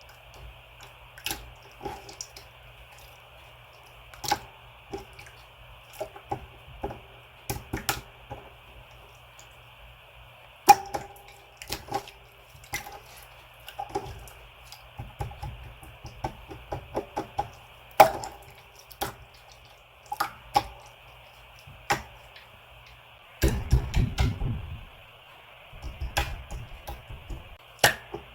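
Slime being squeezed and pressed by hand, giving irregular wet clicks and pops, several a second at times. Two longer stretches of low rumbling handling noise come near the end.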